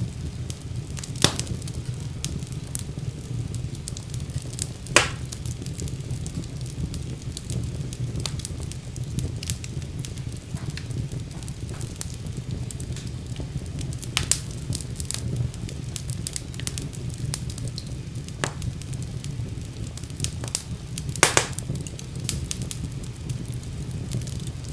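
Wood fire crackling in a fireplace: a steady low rumble of flames with frequent small crackles and a handful of louder sharp pops.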